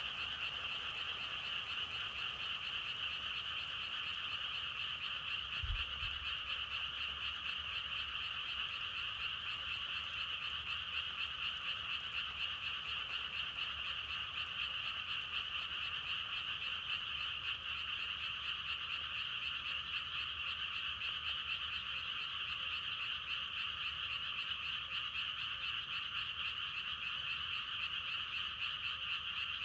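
A dense chorus of many frogs croaking continuously, steady throughout, with a brief low thump about six seconds in.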